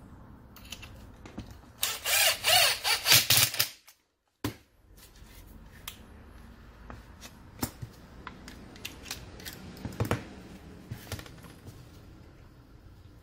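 A power tool runs in several short, loud bursts, then after a brief dead gap come scattered light clicks and taps.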